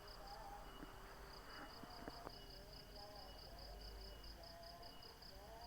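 Faint insect call, a high-pitched chirp repeating in a fast, even pulse, with faint wavering lower tones beneath it.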